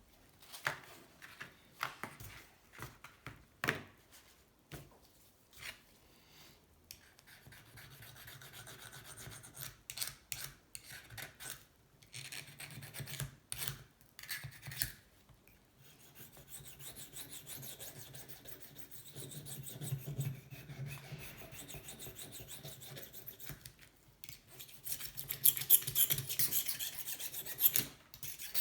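Knife blade being sharpened with repeated rasping, rubbing strokes. A few separate scrapes and taps come first. Near the end the strokes turn louder and harsher.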